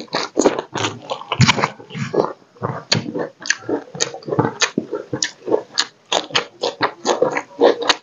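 Close-miked chewing of a mouthful of rice and fried crab: quick, irregular crunches and wet mouth smacks, several a second.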